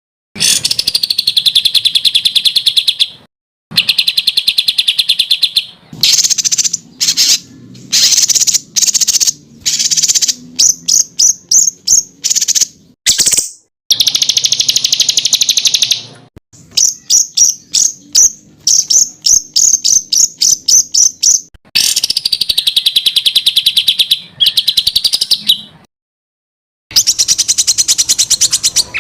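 Songbird song of the masteran kind: loud, fast, high-pitched trills and rapid-fire series of sharp notes ('tembakan'), in phrases of one to a few seconds broken by short, abrupt silences.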